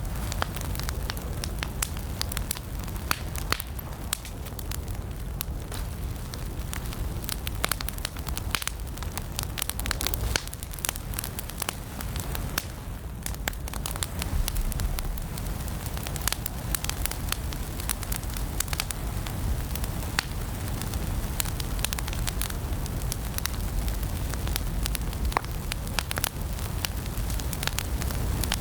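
Wood fire burning in a fireplace, crackling steadily with many small sharp pops over a constant low noise of the flames.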